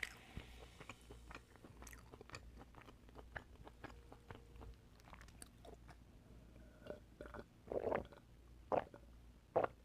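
Oysters being chewed: a run of small mouth clicks, with three louder bites in the last two seconds.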